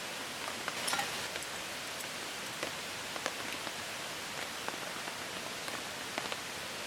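Steady rain falling, a constant hiss with scattered individual drops ticking sharply.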